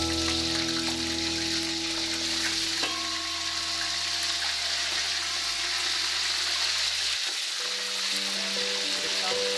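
Chunks of meat frying in hot oil in a deep pot: a steady sizzle, with background music.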